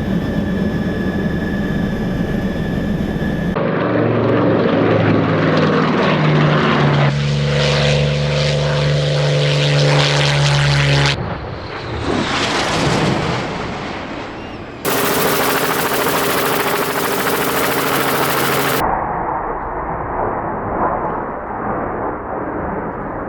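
A run of airplane sound effects cut one after another, each a few seconds long and ending abruptly: aircraft engines droning with a steady pitched hum, including propeller planes, and one fly-past that swells and then fades.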